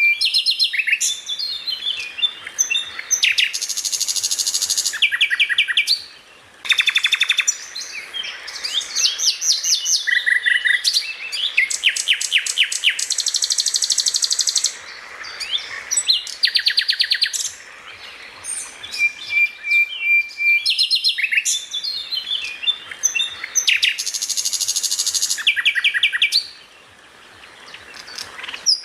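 Songbird song from a masteran training recording: a loud, varied run of chirps, rapid trills, fast buzzy rattles and a held whistled note. It breaks off briefly twice, and the same sequence of phrases comes round again about 20 seconds later, as in a looped track.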